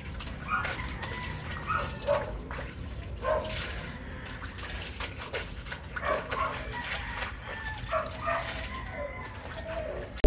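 Dog giving short yips and whimpers about once a second, over the splashing of laundry being rinsed by hand in water.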